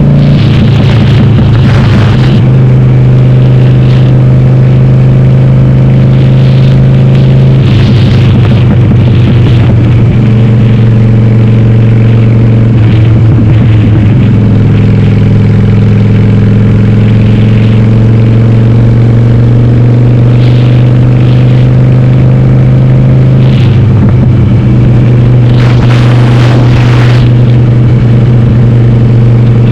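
Harley-Davidson Sportster's air-cooled V-twin, bored to 1200, running loud through a Cobra Speedster 909 exhaust with the dB killers removed while riding. The engine note breaks and settles at a new pitch four times.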